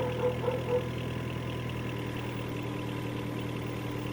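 A steady engine or motor hum running evenly at idle, with a few short wavering sounds in the first second.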